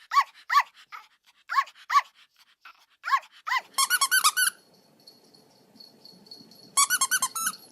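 A small dog yelping in short, high-pitched, squeaky yips, spaced out at first, then in quick rapid-fire runs about halfway through and again near the end.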